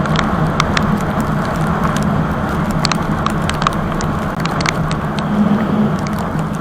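Yamaha R15 V3's single-cylinder engine running steadily while riding, under heavy wind noise on the microphone, with scattered sharp ticks of raindrops.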